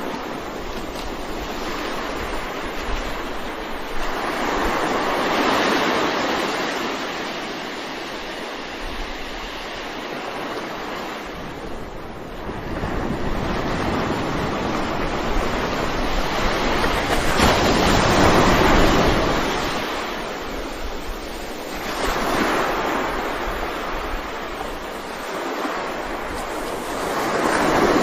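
Sea waves surging and washing, a steady rushing that swells and ebbs every few seconds. The strongest surge comes about two-thirds of the way through, with another near the end.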